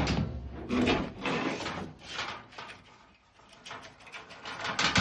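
Dryer vent cleaning rods and brush scraping and rustling as they are pulled out through the vent duct, in irregular swishes with a quieter gap about three seconds in.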